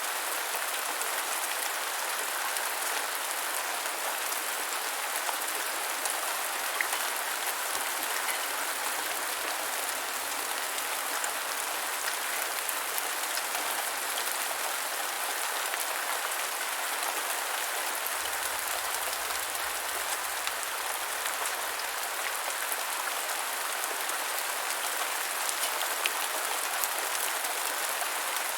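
Steady rain falling on the ground, an even hiss of many drops with scattered sharper ticks of single drops.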